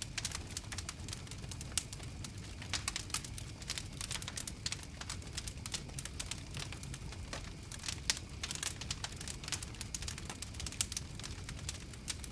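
Wood fire crackling, with many irregular sharp snaps and pops over a low steady rumble of burning.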